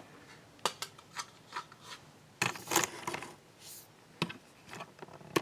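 Hands working on computer parts inside a desktop case: a series of sharp clicks and rubbing, with a louder scraping rustle about halfway through and another sharp click near the end.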